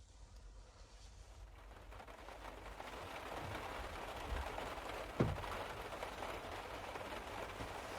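Rain pattering on a car roof, many small drop taps swelling up over the first few seconds and then running on evenly, with a single dull knock about five seconds in.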